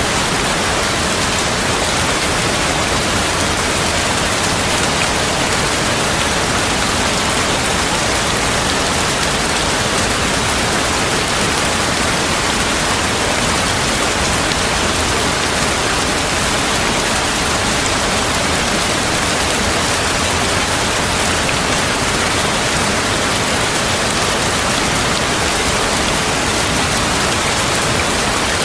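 Heavy rain falling steadily: a dense, even hiss of rain with no thunder.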